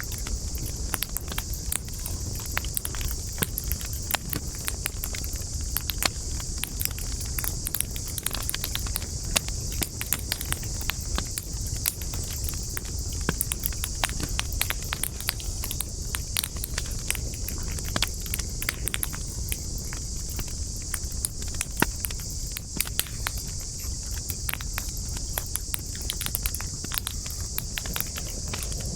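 Campfire of burning wood crackling, with frequent sharp pops and snaps over a steady high hiss and a low rumble.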